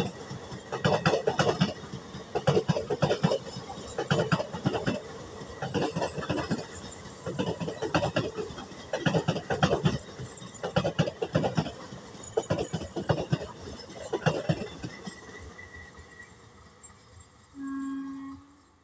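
Passenger coaches of an express train passing close by at speed, the wheels clattering over rail joints in quick clusters of clacks that fade as the train draws away. Near the end a short, steady horn blast sounds.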